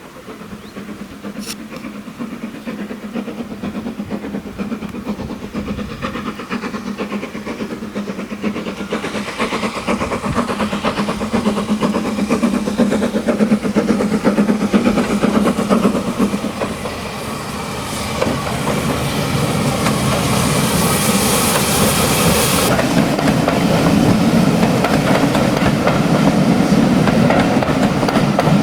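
SR U Class 2-6-0 steam locomotive running in and growing steadily louder as it approaches. A loud hiss, strongest about two-thirds through, cuts off suddenly.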